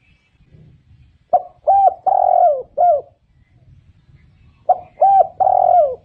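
Spotted dove cooing: two phrases of four coos each, the third coo the longest, about three and a half seconds apart, the second phrase still going at the end.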